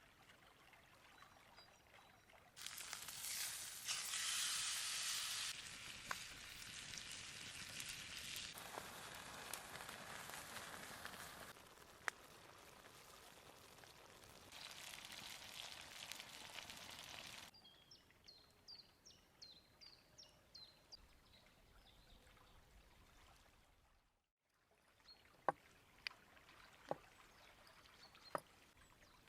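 River water flowing steadily, its rush rising and falling in level, then birds chirping in a run of short falling notes. Near the end there are a few sharp isolated clicks.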